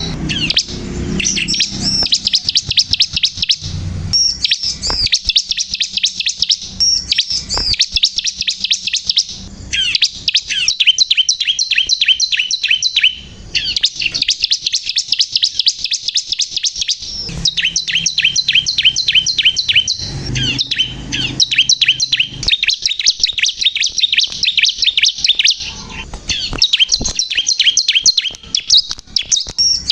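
A ciblek kristal prinia singing in full, continuous song: fast runs of high, rapidly repeated chirping notes, broken by brief pauses every few seconds.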